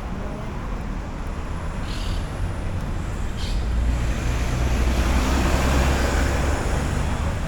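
City street traffic: a steady low rumble of vehicles, with a vehicle passing close that grows louder about halfway through and then eases off.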